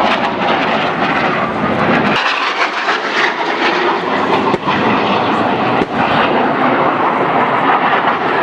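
Loud, steady aircraft engine noise from military aircraft performing at an air show, cut abruptly about two seconds in and again briefly twice later.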